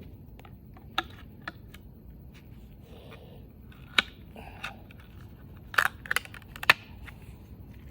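Scattered sharp clicks and light knocks of small parts and tools being handled on a workbench while a snowmobile fuel pump is taken apart, with a small cluster of clicks near the end.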